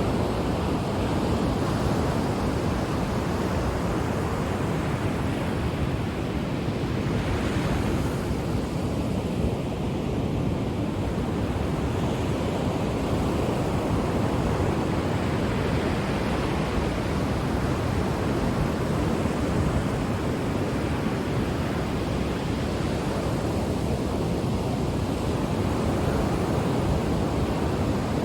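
Ocean waves breaking on a shore: a steady rush of surf that swells and eases slightly now and then.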